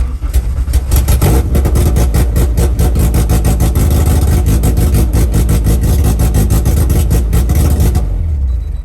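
Honda K24 four-cylinder engine cranking on the starter with a fast, even pulse, for about eight seconds without catching, then stopping. It is a no-start, which the owner links to the MAP sensor falsely reading boost.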